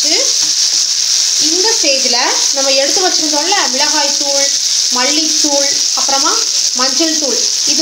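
Shallots, garlic and tomato sizzling steadily in oil in a non-stick frying pan, scraped and stirred with a wooden spatula at first. Over the sizzle runs a pitched, voice-like sound that rises and falls in short phrases.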